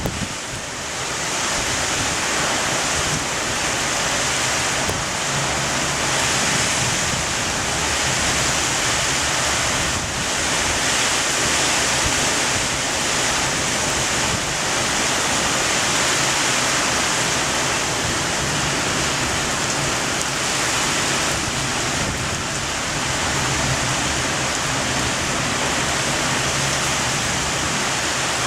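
Heavy thunderstorm rain with wind, a steady dense hiss that swells slightly just after the start and then holds even.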